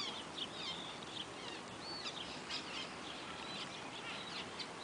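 A flock of small birds chirping, many short overlapping calls and quick rising and falling notes throughout.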